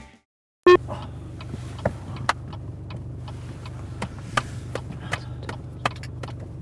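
Steady low hum of an idling vehicle engine with scattered light clicks and ticks, opening with a short, sharp pitched blip.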